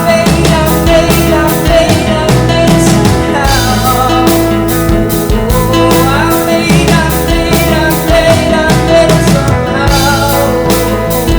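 Rock song with a full band: drum kit keeping a steady beat under sustained guitar chords and a bending lead line.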